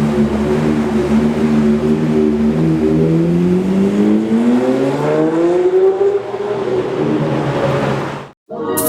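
Sports car engine running at a steady low speed, then rising in pitch as it revs up for about three seconds before falling away. The sound cuts off abruptly near the end.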